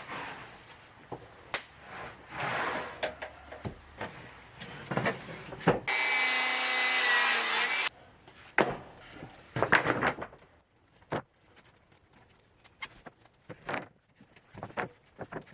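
Cedar boards knocking and scraping as they are handled, with a loud power-saw cut lasting about two seconds near the middle that starts and stops abruptly.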